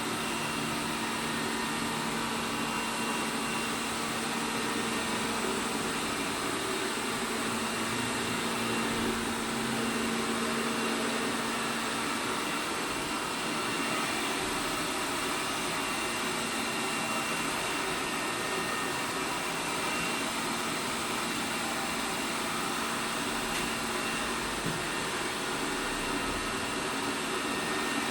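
ELARI SmartBot Lite SBT-002A robot vacuum cleaner running steadily, its suction fan and brushes giving a constant whirring hum.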